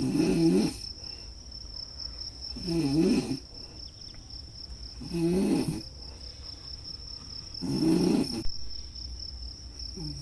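A person snoring, four low snores each under a second long, about every two and a half seconds, over crickets chirping in a steady high-pitched trill.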